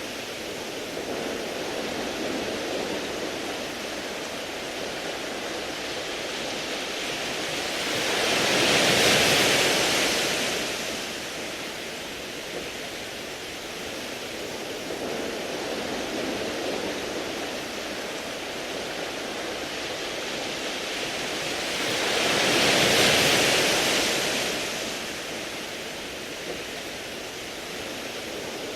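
Sea waves washing onto a beach of smooth round pebbles, a steady wash with two waves swelling louder and falling away, about a third and four-fifths of the way through.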